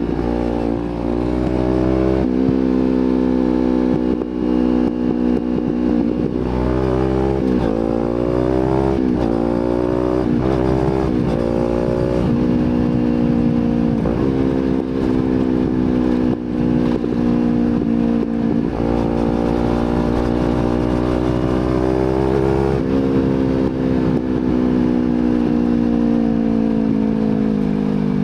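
Kawasaki Z250 engine through an aftermarket slip-on exhaust while riding. Its pitch climbs and drops sharply several times a quarter of the way in as it goes up through the gears. It then holds a steady note and falls away near the end as the bike slows, over a low rumble of wind.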